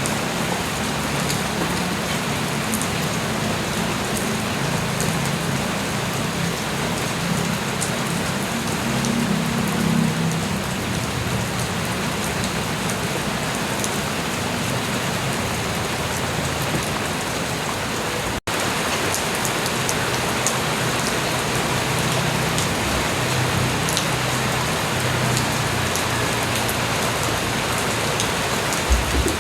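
Steady light rain falling, with drops pattering on surfaces. The sound cuts out completely for an instant about eighteen seconds in.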